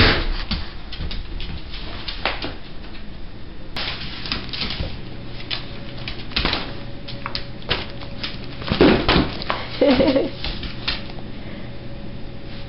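Pets moving about on a hard floor: scattered light clicks and knocks, with a short, wavering animal cry about ten seconds in.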